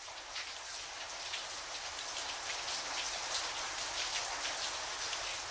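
Rain falling, a steady hiss of rain with scattered drops ticking, gradually growing louder as it fades in.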